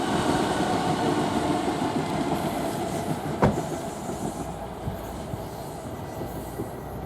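Two coupled Class 455 third-rail electric multiple units rolling past on the rails, the rumble fading as the train moves away, with one sharp clack from the wheels about three and a half seconds in.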